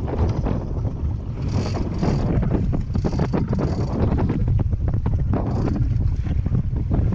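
Wind buffeting the microphone in rough gusts over the steady low rush of a boat under way on the sea.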